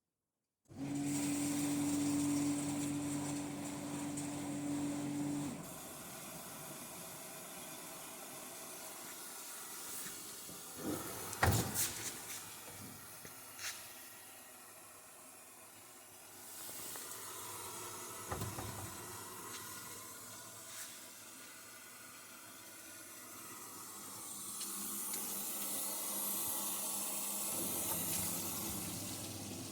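Winterhalter commercial undercounter dishwasher running. It starts with a steady motor hum for about five seconds, then water hisses and sprays inside the machine. A few knocks come around the middle, and the water noise swells again near the end.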